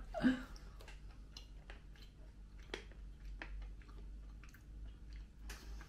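A person chewing a piece of gum: faint, scattered soft clicks from the mouth.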